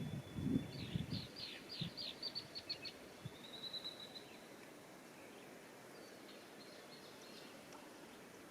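A small songbird singing: a run of high notes that speed up, then a short high trill. Soft low knocks come in the first second or so.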